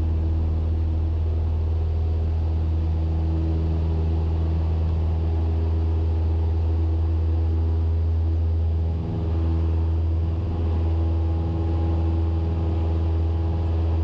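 Cessna 172S's four-cylinder Lycoming IO-360 engine and propeller droning steadily in flight, heard from inside the cockpit, with a brief dip about nine seconds in.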